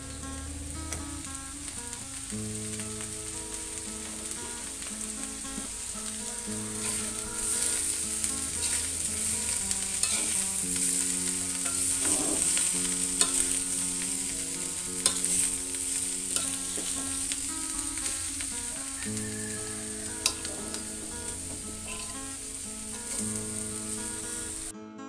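Young jackfruit sizzling in oil in a wok while a metal spatula stirs and turns it, with scattered scraping clicks against the pan. Background music plays underneath.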